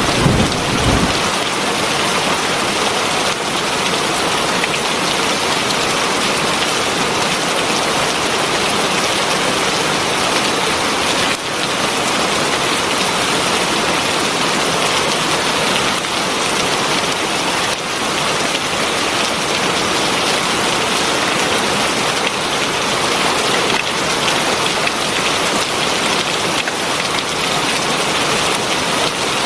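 Heavy rain falling steadily, a dense even hiss of drops. A low rumble of thunder dies away in the first second.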